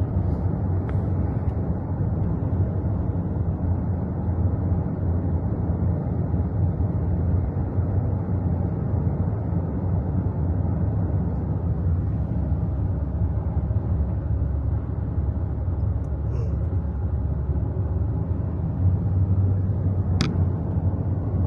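Steady low road rumble of a moving car, heard from inside the cabin, with a single short click near the end.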